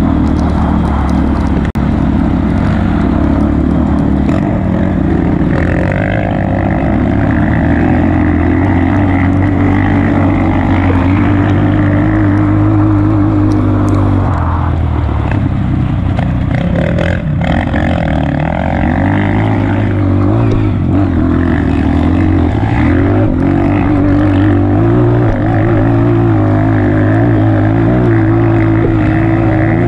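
Honda CRF230F's single-cylinder four-stroke engine running as the bike is ridden, its revs rising and falling, with a dip in revs a little past halfway before it pulls up again.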